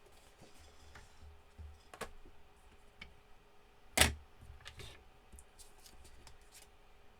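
Craft supplies being handled on a work surface: scattered light clicks and taps, with one sharp knock about four seconds in.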